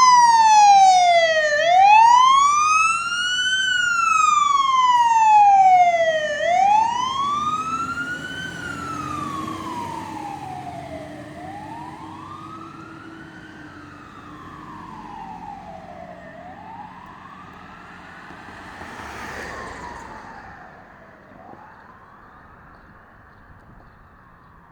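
Fire engine siren in wail mode, its pitch sweeping slowly up and down about every five seconds, loud at first and fading steadily as the truck moves away.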